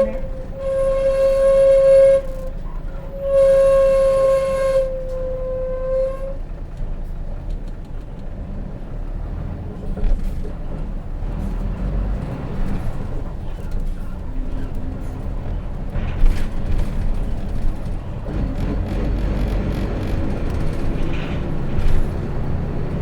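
Hino RJ bus's brake shoes squealing in three bursts over the first six seconds, a steady high tone that dips slightly in pitch as it dies away. Then the J08C diesel runs on with a low rumble and small rattles inside the bus.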